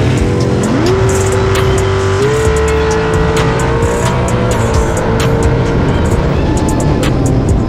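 Race car engine running at high revs, its pitch climbing sharply early on, holding, then stepping up and back down, with background music underneath.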